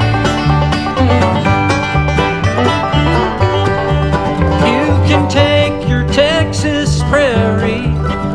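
Bluegrass band playing the instrumental opening of a song: rolling banjo over guitar and a steady bass beat. A wavering lead melody with vibrato comes in about halfway through.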